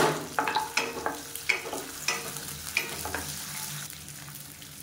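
Green chillies, curry leaves, ginger and garlic sizzling in hot oil in a kadai, stirred with a wooden spatula. The spatula scrapes and taps the pan in a string of short strokes over the first three seconds, then the sizzle goes on more steadily.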